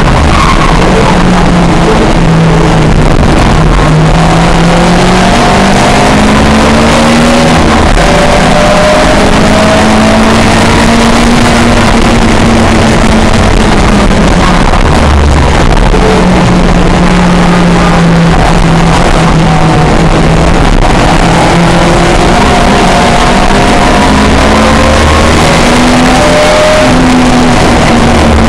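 Historic touring race car engine running hard and loud, its pitch climbing and dropping again and again as it accelerates, changes gear and brakes.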